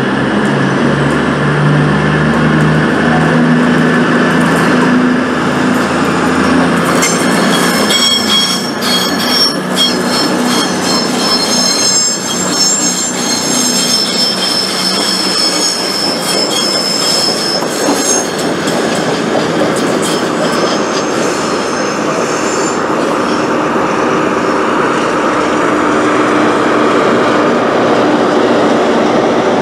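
CrossCountry Voyager diesel multiple units moving through the station: diesel engines drone at first, then from about seven seconds in the wheels squeal with clicks over the rail joints for about ten seconds, followed by steady rumbling of the train on the track.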